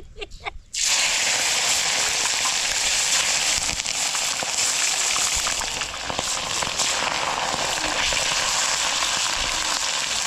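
Food frying in hot oil, a loud steady sizzle with crackling throughout that starts suddenly about a second in.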